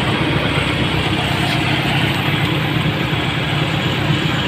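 Steady motor-vehicle noise: an engine running with an even low drone.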